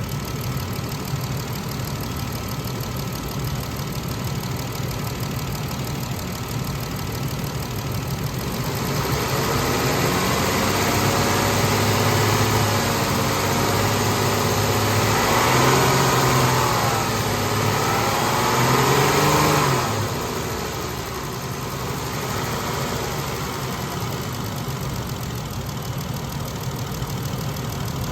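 2014 Dodge Journey's 3.6L V6 engine idling, then brought up to higher revs for about ten seconds, its pitch rising and falling, before settling back to idle.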